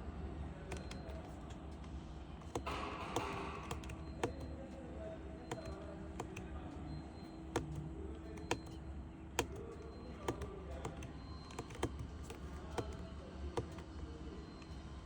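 Sharp clicks of the truck's dashboard menu buttons being pressed one at a time at an irregular pace, over a steady low hum from the truck. A short hiss comes about three seconds in.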